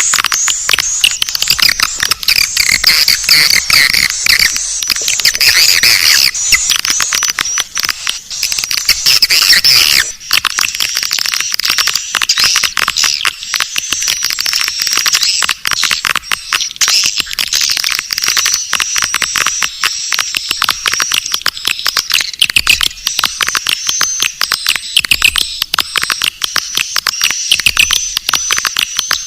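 Swiftlet lure call: a continuous, dense chatter of rapid high-pitched twittering and clicking swiftlet calls, with almost no low end, of the kind played to draw swiftlets into a nesting house.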